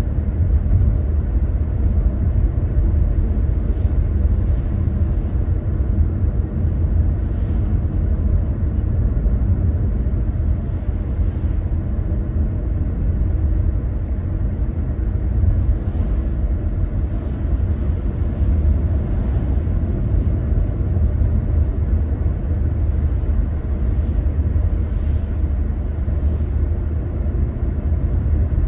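Steady low rumble of a car being driven, the engine and tyre noise holding an even level.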